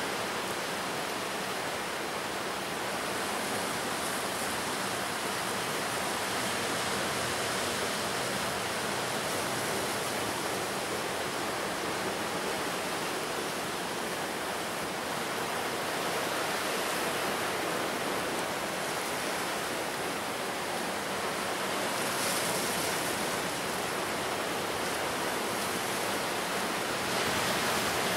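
Ocean surf washing in continuously, a steady rush of noise that swells slightly a few times and rises near the end.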